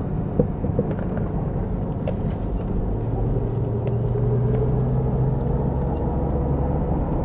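Steady low mechanical rumble, with a low hum that grows louder about three seconds in and eases near the end, and a few light clicks.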